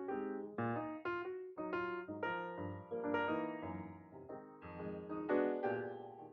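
Background piano music: a melody of struck notes played at a lively pace.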